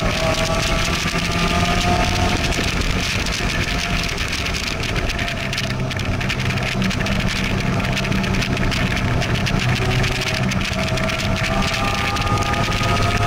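Sports car's engine pulling at part throttle on a race track, heard from inside the open cockpit over steady wind and road noise. The engine note eases off through the middle and climbs again near the end as the car accelerates.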